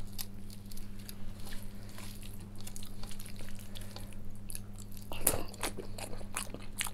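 Close-miked eating sounds: wet chewing and mouth smacks as rice and curry are eaten by hand, with fingers squishing and mixing rice on a steel plate. One louder smack comes about five seconds in, over a steady low hum.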